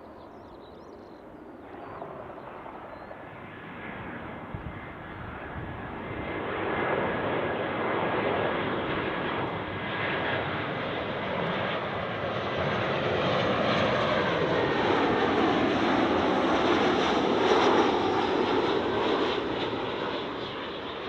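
Airliner on short final approach passing low overhead: engine noise builds over several seconds, peaks with pitch lines sweeping downward as it passes, then begins to fade near the end.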